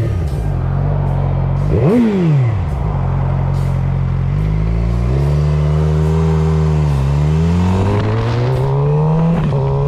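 Motorcycle engine running under way at steady revs, with a quick rev up and down about two seconds in, a few step changes in pitch in the middle, and revs climbing near the end.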